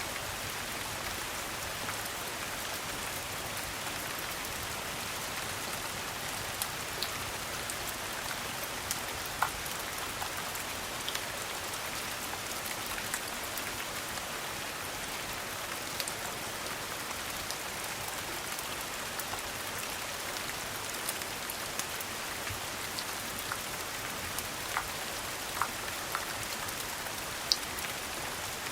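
Steady rain, an even patter, with scattered sharp ticks and pops over it.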